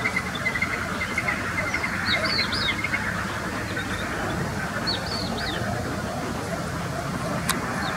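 Birds calling: a fast run of short repeated notes for the first three seconds, with a few brief high chirps around the middle, over a steady low background rumble. A single sharp click comes near the end.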